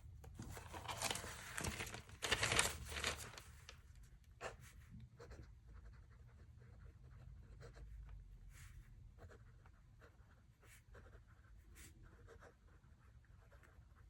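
Pen scratching on paper in a run of quick strokes during the first few seconds, followed by scattered light taps and small handling noises.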